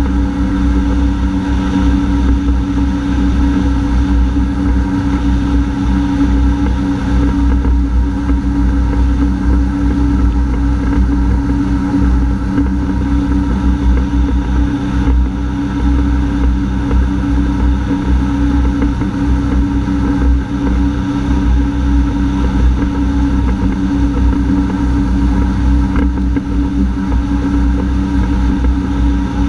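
Honda AquaTrax F-12X personal watercraft engine running steadily under way, a constant engine drone over low rumble and water noise, with no change in pitch.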